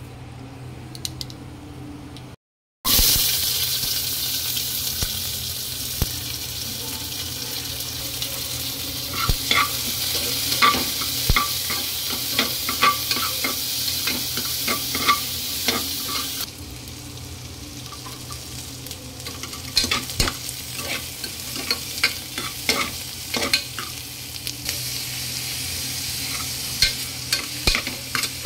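Hot oil sizzling in an aluminium pressure cooker as mustard seeds, split urad dal and chopped onions fry, with a metal spoon scraping and clicking against the pot as it is stirred. The sizzle starts loud about three seconds in and is quieter in the second half.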